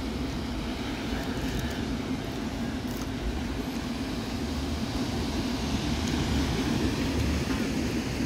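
Train running past with a steady rumble that holds unbroken throughout.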